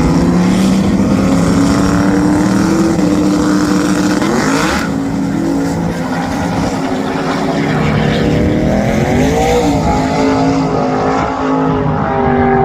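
Car engine running loud and being revved, its pitch climbing sharply about five seconds in, with a shorter rev up and back down around nine to ten seconds in.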